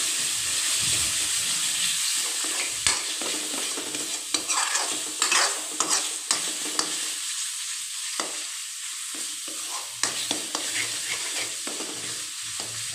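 Masala paste of onion, tomato, ginger and garlic sizzling in oil in a metal pan while a spoon stirs it and scrapes the pan, in a steady hiss broken by frequent scraping clicks. The masala is being fried (bhuna) on high heat until the oil separates.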